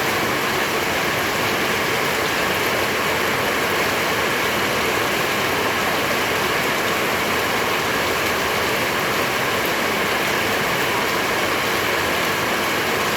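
Steady rushing of floodwater in a river swollen by heavy rain.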